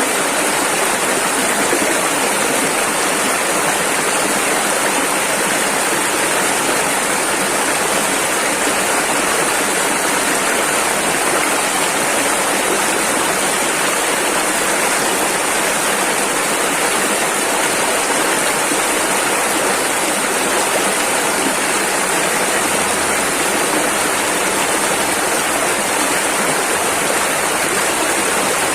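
A rushing river: fast water running over rapids in a steady, unbroken rush.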